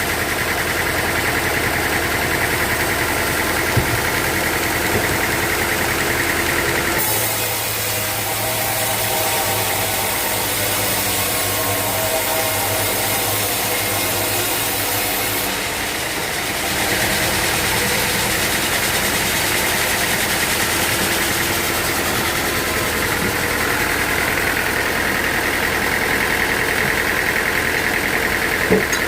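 Sawmill machinery running steadily, an engine-driven saw mill with a constant hum. Its sound changes abruptly about seven seconds in, turning hissier, and returns to the earlier hum about sixteen seconds in.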